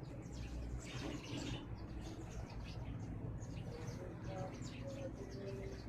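A flock of house sparrows chirping busily, many short chirps overlapping throughout, over a steady low rumble.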